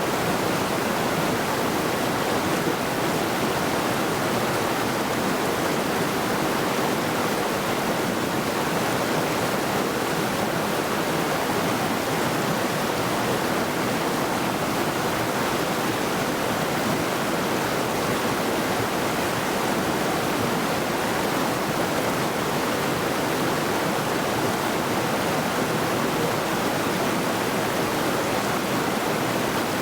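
A mountain river rushing over rocks: a steady, even roar of flowing water with no change throughout.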